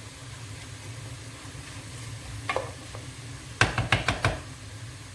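Chicken pieces sizzling as they brown in a frying pan, with a quick run of four or five sharp knocks of a utensil against the pan a little after halfway.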